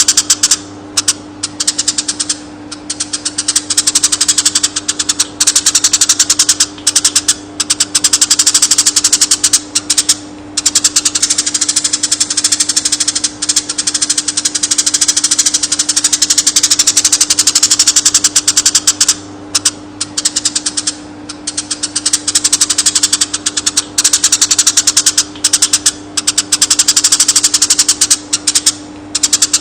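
Eurasian tree sparrow singing a long rolling chatter: very rapid high chirps run together into a continuous trill, broken by short pauses every few seconds. A steady low hum runs underneath.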